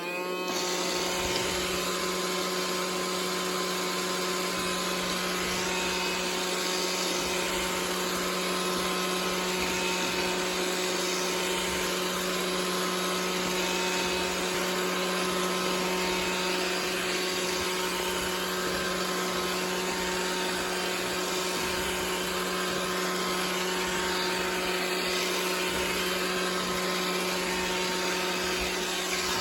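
iRobot Roomba 690 robot vacuum running: its motors spin up at the very start, then settle into a steady whirring hum with an even hiss of suction.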